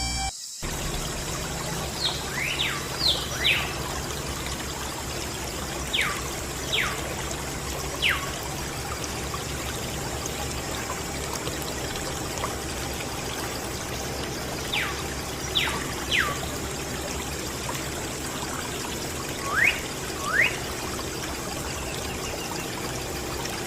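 Water pouring in a steady trickle from a small DIY water pump. A few short chirps, most sweeping down in pitch, come in twos and threes over it.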